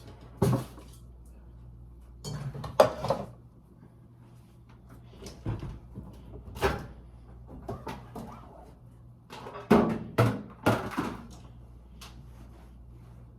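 Kitchen cabinet doors and items being handled while cabinets are wiped down: a string of separate knocks and bangs, some in quick clusters, over a low steady hum.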